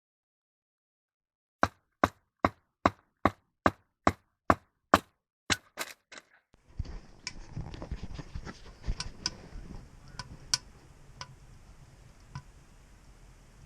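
A quick series of about a dozen sharp clicks, then a newly lit wood fire crackling and popping inside a small sheet-metal camp stove, over a low rumble of its draft.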